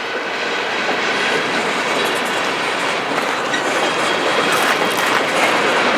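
Train passing close by, its cars rolling steadily over the rails with a clickety-clack of wheels, growing slightly louder.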